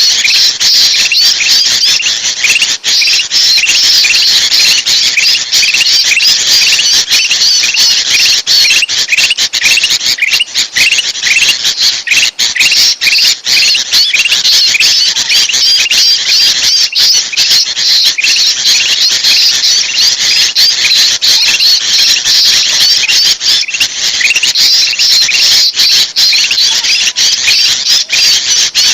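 Dense, noisy chattering of bulbuls: sooty-headed bulbul (kutilang) calls mixed with kutilang emas calls, many short sharp notes overlapping without a break, as on a bird-lure recording.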